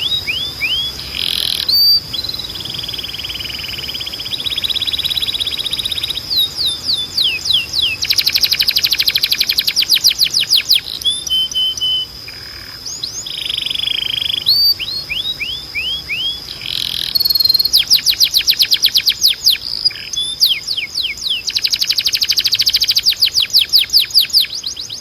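Canary singing a long run of song: phrases of fast trills and rolls alternating with series of quick descending notes, each phrase lasting a few seconds. A steady high tone sounds underneath throughout.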